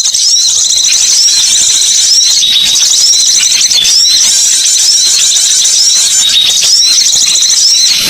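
A dense chorus of high-pitched bird chirps and squeaky calls, with a short hooked note repeating about once a second. It is a recorded bird-lure call track.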